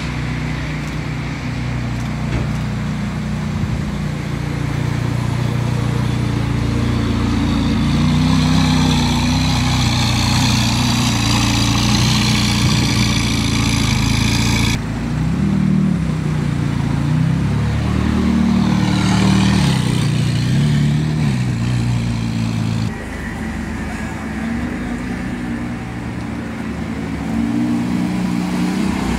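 Sports car engines running and revving, their pitch rising and falling, with sudden changes in the sound where one shot cuts to the next.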